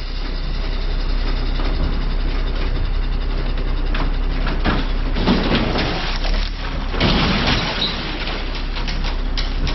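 Heavy truck engine running steadily, with scattered knocks and two louder rushing, hissing bursts about five and seven seconds in.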